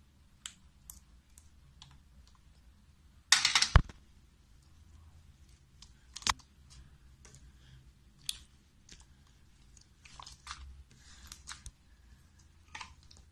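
Pink slime being worked with a spatula and squeezed by hand: scattered small sticky clicks and squelches, with one louder burst of noise about three and a half seconds in and a sharp click near the middle.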